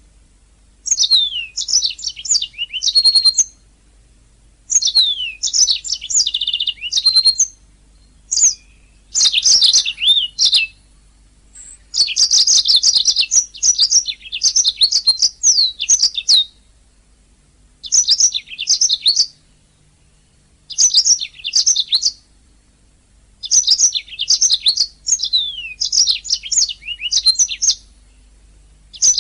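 Domestic canary singing: bursts of rapid trills and whistled notes, in phrases of one to four seconds separated by short pauses.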